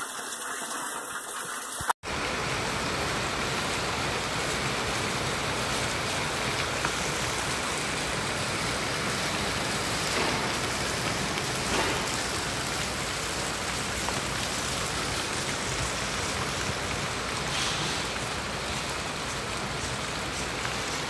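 Heavy rain pouring onto a flooded street, with water running over the pavement in a steady rush. It starts abruptly about two seconds in, after a quieter stretch of water splashing.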